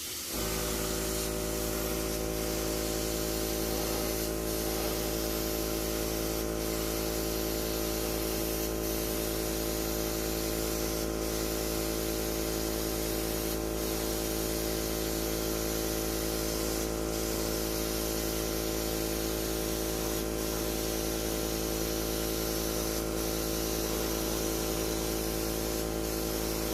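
Airbrush spraying paint in a long steady hiss, a first light coat, over the constant hum of its air compressor.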